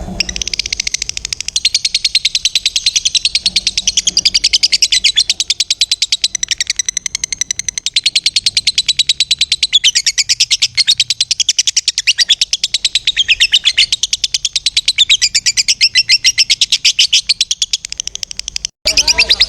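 Lovebird giving its long, fast chattering trill (ngekek): a rapid unbroken run of high notes that drops out for a moment near the end and then starts again.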